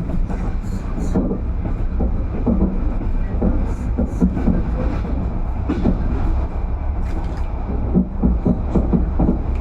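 Passenger train running along the track, heard from inside the carriage: a steady low rumble of wheels on rails with frequent irregular knocks and rattles.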